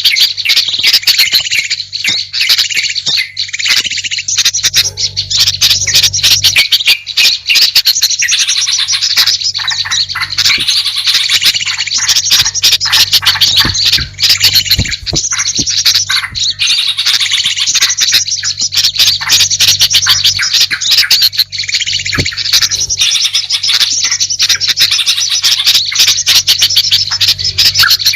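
Bird-lure recording of a dense, loud chorus of small songbirds chattering with rapid chirps, squawks and trills, played to call wild birds in.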